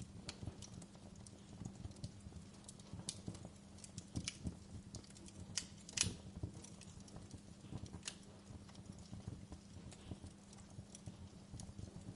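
Wood fire in a fireplace crackling, with irregular small pops and one sharper pop about six seconds in, over a steady low hum.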